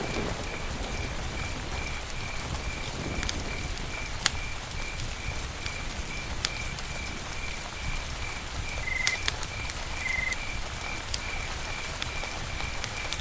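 Campfire crackling, a steady hiss broken by sharp pops, the loudest about four seconds in and again near nine seconds. Behind it a high chirp repeats evenly about three times a second.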